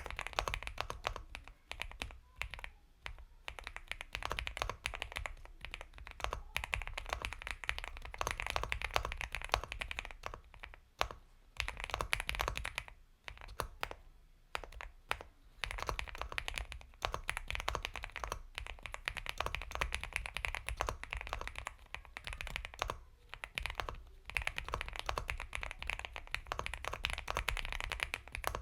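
Typing on an Epomaker x Feker Galaxy 80 mechanical keyboard with Gateron Milky Yellow Pro linear switches: a fast, steady stream of soft, creamy keystrokes, broken by a few short pauses.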